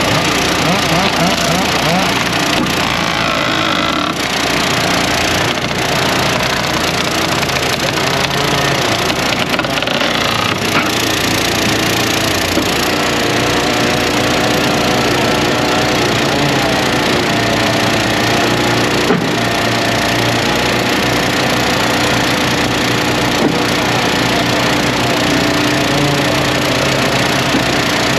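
Eastonmade 12-22 wood splitter's gas engine running steadily under load as logs are split, with wood cracking and splintering, its pitch dipping and rising now and then.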